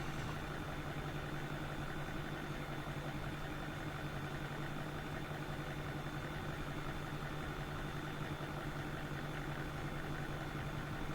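A steady low hum, with a faint thin high tone above it and no other events.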